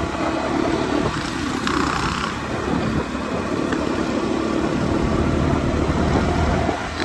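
Dirt bike engine running steadily, a continuous low mechanical rumble.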